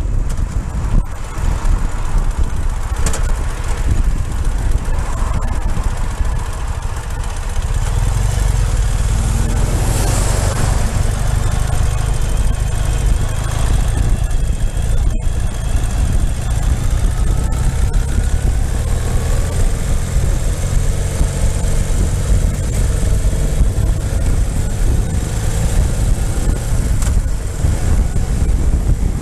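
Ural motorcycle's flat-twin engine running on the move, with wind rumbling on the microphone and the engine note rising at times.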